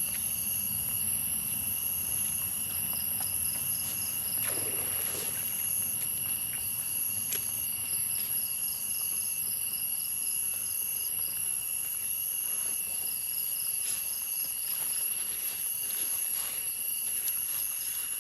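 A chorus of forest insects: a steady high-pitched drone at two pitches, with rhythmic pulsing chirps over it and a few faint clicks.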